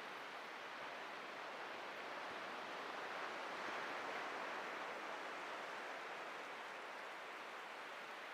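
Atlantic ocean surf washing onto a beach: a steady hiss of breaking waves that swells a few seconds in and then eases off.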